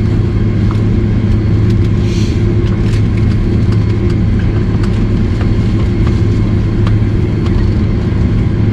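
Steady drone of a Boeing 767-300's General Electric CF6 engines and airflow, heard inside the passenger cabin. A low hum holds level throughout, with a few faint clicks over it.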